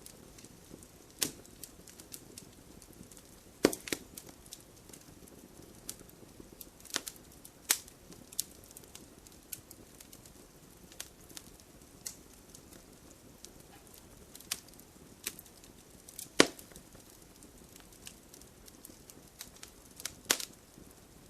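Burning wood logs crackling, with irregular sharp pops and snaps over a faint hiss; a few pops stand out louder, the biggest about 16 seconds in.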